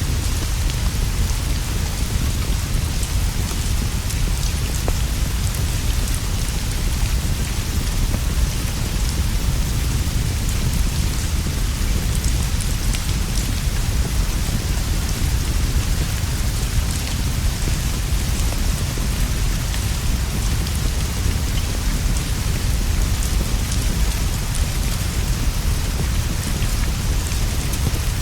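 Steady, unbroken rainfall with a deep continuous rumble underneath and faint scattered ticks.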